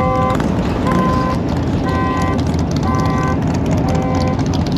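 A car's electronic horn or siren sounds a string of short, steady notes, about one and a half a second, changing pitch from note to note. Under it is a loud rumble of idling engines.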